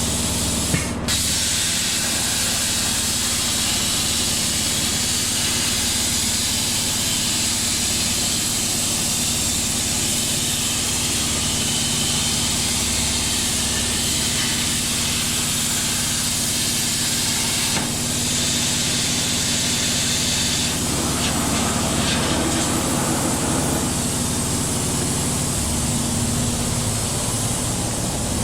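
CNC plasma cutter cutting metal: a steady hiss of the plasma arc and its air jet over the steady hum of the table's fan, with a short click about a second in.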